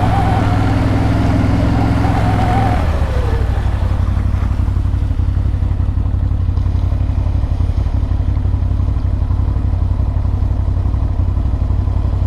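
CFMoto CFORCE 1000 Overland ATV's V-twin engine running under throttle with a high whine, easing off about three seconds in, then running steadily at lower revs.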